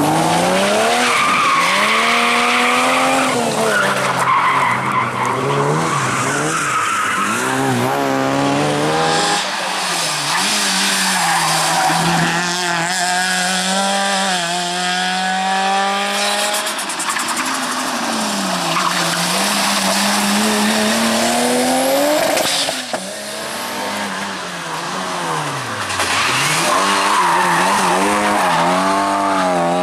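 Rally cars at full attack: engines revving hard, pitch climbing and dropping again and again through gear changes and lifts, with tyre squeal and skidding as the cars slide through corners. The engine cuts off sharply about 23 seconds in, then builds again.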